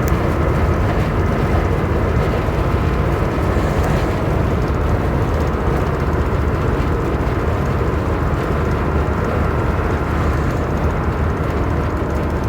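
Steady, even road rumble of a car travelling at highway speed, with no single event standing out.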